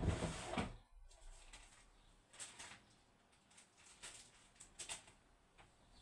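Faint handling noises from a small padlock and tools: a brief rustle at the start, then a few scattered light clicks and scrapes.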